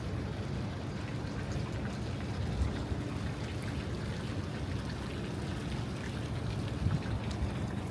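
Steady city street ambience: a low traffic rumble under an even, rain-like hiss, with a few faint ticks.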